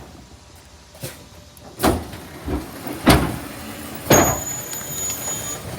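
Garbage truck at work: four loud bangs and clatters about a second apart, from trash cans and refuse being emptied and knocked against the truck. A thin high whine follows the last bang for about a second and a half.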